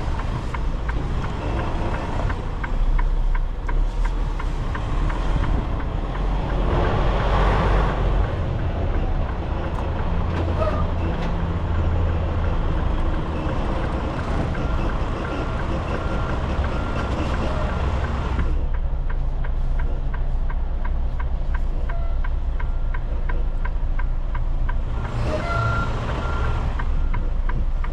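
Semi truck's diesel engine running at low speed while it is maneuvered, with reversing beeps. Two bursts of air hiss, about seven seconds in and again near the end.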